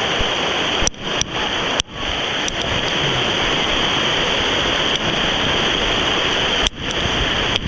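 Heavy rain pouring down in a steady, loud hiss, with a few very brief dropouts.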